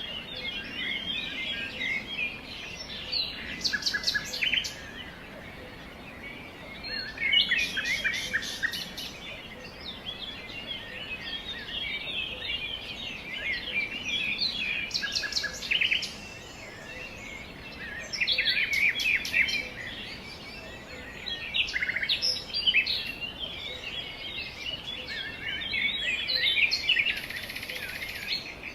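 Several small songbirds chirping and twittering continuously, with bursts of rapid trilled notes every few seconds.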